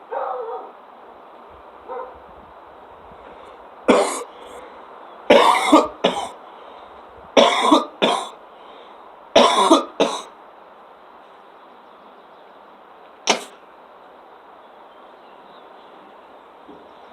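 A man coughing: a series of harsh coughs, mostly in pairs about every two seconds, then a single cough a few seconds later, as he smokes a cannabis pre-roll.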